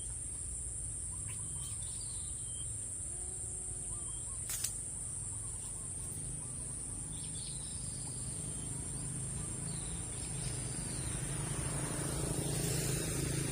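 Outdoor countryside ambience: birds give short chirps now and then over a steady high-pitched insect drone and a low wind rumble. A single sharp click comes about four and a half seconds in.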